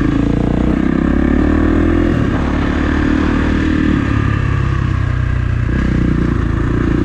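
Kawasaki KX450 dirt bike's single-cylinder four-stroke engine running under way, its revs changing every couple of seconds as the throttle rises and falls.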